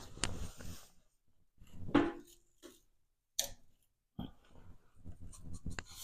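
Steel sheet being worked in a homemade sheet-metal bending brake: a few separate bursts of rattling and scraping metal, with a sharp click about three and a half seconds in.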